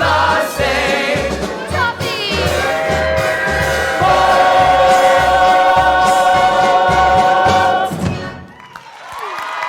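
Stage musical ensemble singing the last bars of a show tune with the pit band over a steady bass beat, then holding one long final chord from about four seconds in that cuts off near the end. Audience cheering and applause begin just after.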